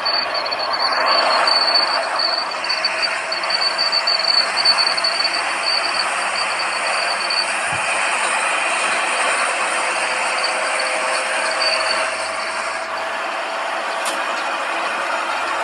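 Inside the cabin of a Mercedes-Benz W110 200D under full acceleration: its 2-litre four-cylinder diesel runs hard under a dense, steady wash of road and wind noise. A thin, high, steady whine sits over it for about the first half, and the upper hiss eases off near the end.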